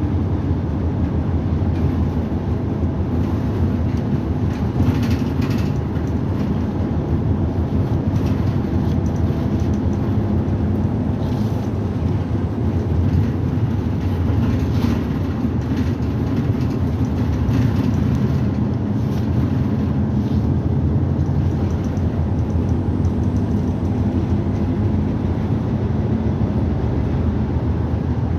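Route bus engine and drivetrain running steadily as the bus drives, heard from inside the cabin, with a few faint light rattles.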